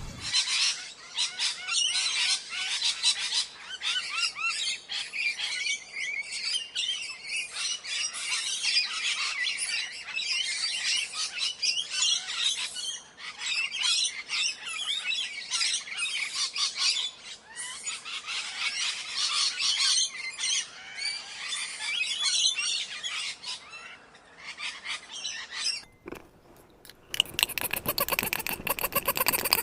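Birds chirping in quick, overlapping calls, dense and high-pitched, until they stop about 26 seconds in. After a brief lull, a different, noisier sound begins near the end.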